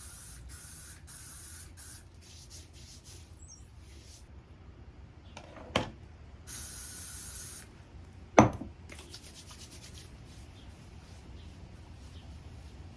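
Aerosol spray sunscreen hissing in a run of short bursts over the first two seconds and in one longer burst past the middle, with hands rubbing it onto skin. Two sharp knocks, the louder one about eight seconds in.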